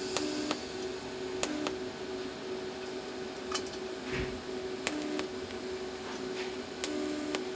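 Steady machine hum in a metalworking shop, broken by a few sharp metallic clicks.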